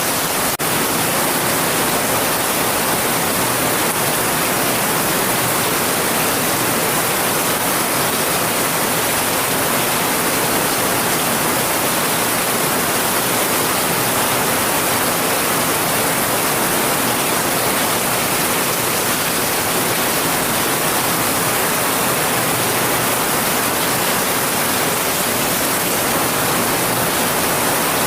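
Heavy rain falling steadily: a dense, even hiss with no single drops standing out. There is a brief click and dip in level about half a second in.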